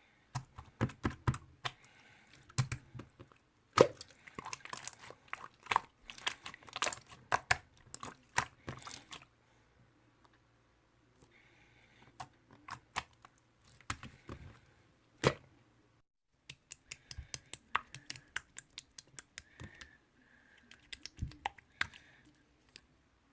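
Slime being squeezed and pressed by hand, making quick sticky clicks and pops in irregular clusters, with short lulls about ten and sixteen seconds in.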